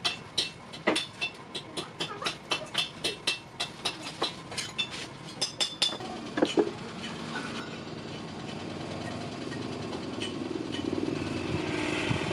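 Hammer striking metal on an anvil in a quick, ringing rhythm of about three to four blows a second, stopping about six seconds in. A steady engine-like drone then grows slowly louder.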